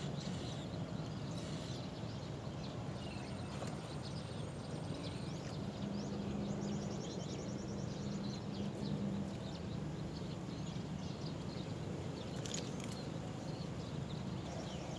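Birds chirping, with many short high chirps scattered throughout, over a steady low rumble.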